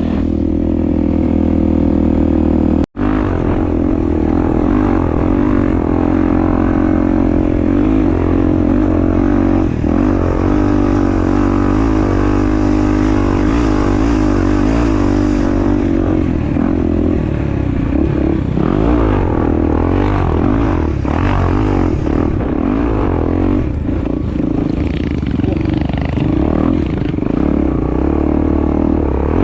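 Honda Tornado's single-cylinder four-stroke engine running under a rider off-road, its revs rising and falling steadily. The sound drops out for an instant about three seconds in.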